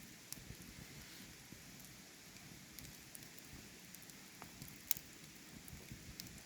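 Wood campfire crackling, with scattered sharp pops and the loudest pop just before five seconds in, over a steady soft hiss of flowing water.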